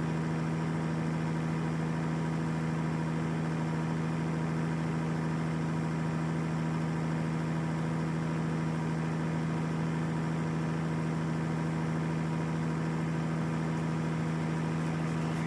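Tractor engine idling steadily at an even pitch.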